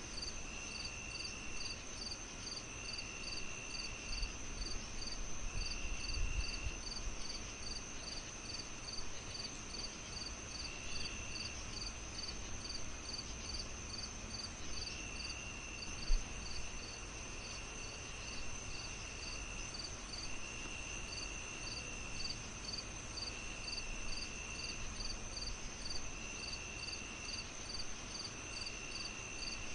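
Crickets chirping steadily, about three chirps a second, with a second insect giving trills of a second or so every few seconds, over a steady low hiss. A single sharp pop stands out about sixteen seconds in.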